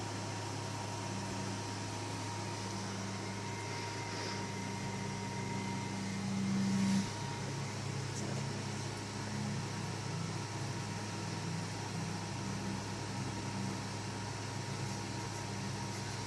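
Steady low mechanical hum over a background hiss, swelling briefly about seven seconds in.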